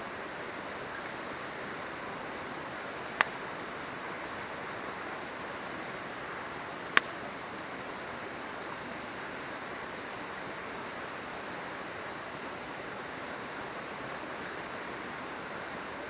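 River water rushing steadily, with the campfire's burning wood giving two sharp pops, about three seconds and seven seconds in.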